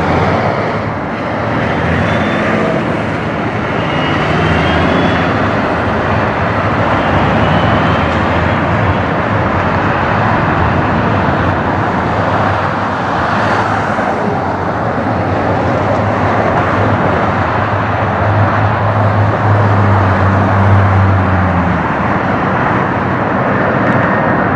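Jet airliner engines heard as a loud, steady rushing noise with a low hum underneath, which grows stronger for a few seconds near the end before easing.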